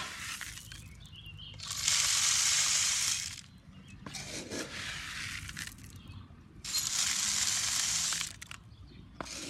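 Birdseed poured out in a gritty, hissing rush. It comes in two loud spells of about a second and a half each, with a softer spell between them.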